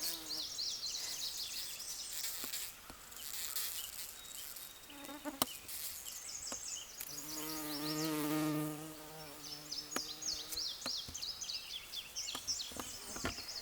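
Bumblebee wings buzzing as the bee works comfrey flowers. The buzz swells into a loud, steady drone for a few seconds in the middle, as if the bee flies close.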